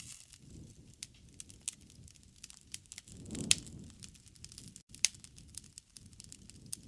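Wood campfire crackling, with irregular sharp pops over a soft low rumble of the flames. The loudest pop comes about three and a half seconds in, with another sharp snap about five seconds in.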